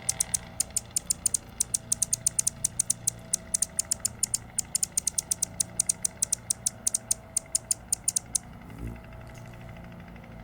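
A small bird calling from its nest in a tree hole: a rapid, irregular series of very high, short chips, several a second, that stops about eight seconds in. A low thump follows about a second later.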